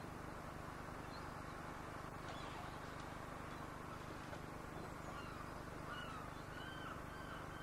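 Steady low running noise of a narrow-gauge electric tram on the move, with birds calling in a series of short repeated chirps from about six seconds in.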